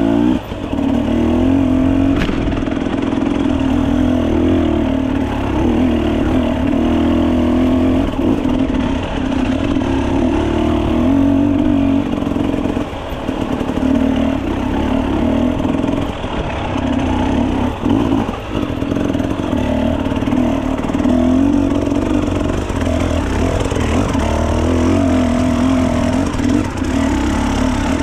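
Dirt bike engine running under changing throttle, its pitch rising and falling as the rider works it, easing off briefly twice in the middle.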